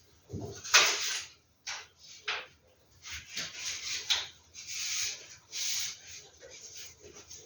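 Rustling and rubbing of vintage posters and their packaging as they are handled, in short irregular bursts, with a soft thump about half a second in.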